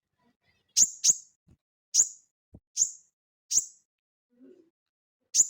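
Sogon (little spiderhunter) giving sharp, high-pitched single call notes at irregular intervals of roughly a second, six in all, with two coming close together about a second in.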